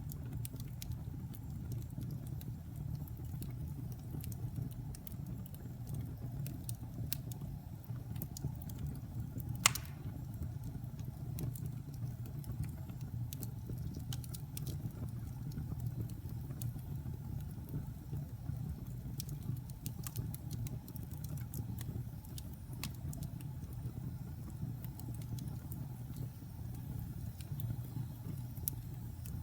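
Wood fire burning in a fireplace: a steady low rumble of flames with scattered small crackles and one loud sharp pop about ten seconds in.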